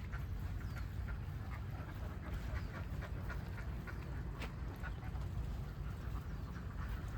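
A flock of ducks quacking in short, scattered calls over a steady low rumble.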